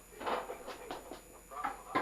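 Faint, indistinct voices in a room, with short unworded sounds rather than clear speech.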